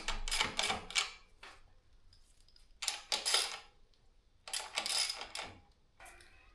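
Light metallic clinking and rattling in three short bursts, from tools and parts being handled while the front wheel is fitted to a steel bicycle.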